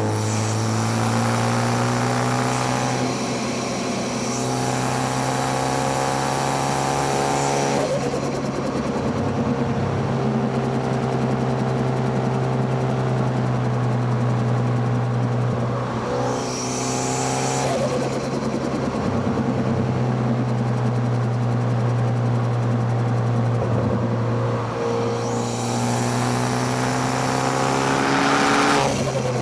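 Car engine heard through microphones at the intake and exhaust, accelerating hard on a twisty road: the revs climb, drop at each gear change and climb again, rising highest near the end.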